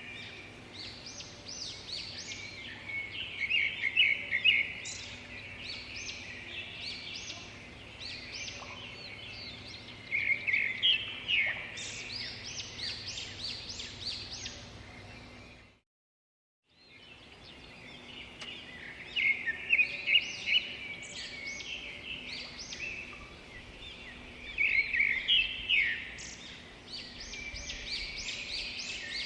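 Birds chirping in quick, high twittering bursts over a faint steady hum, cutting out to silence for about a second midway before the chirping resumes.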